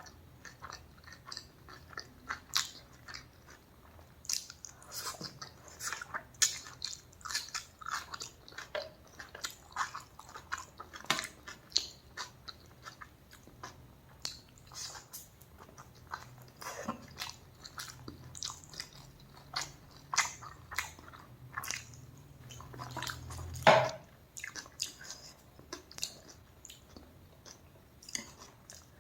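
A person eating close to the microphone: irregular bites and chewing with many sharp, crunchy clicks, the loudest bite about three quarters of the way through.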